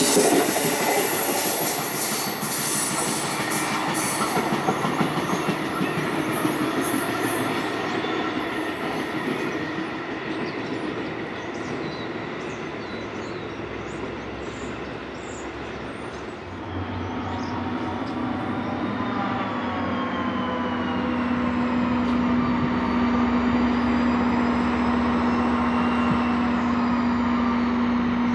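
A train running through a station: wheels rumbling and squealing on the rails for the first several seconds. From about halfway in, a steady hum joins, with a motor whine that glides up and down in pitch.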